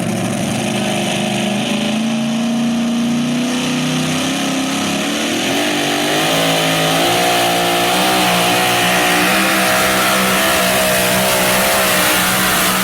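Pulling truck's engine at high revs under load during a pull down the track. The pitch climbs about halfway through, then holds high with a slight waver.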